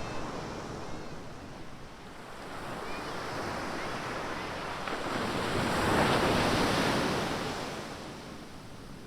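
Ocean surf: a wave breaks and washes up the beach, swelling to its loudest about six seconds in and fading near the end, over a steady hiss of surf.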